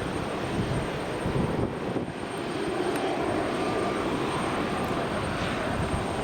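Jet airliner's engines in reverse thrust during the landing rollout: a steady rushing jet noise.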